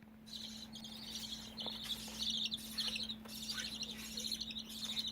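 Pet budgerigars chattering: a continuous stream of fast, high chirps and warbles with brief pauses, over a faint steady low hum.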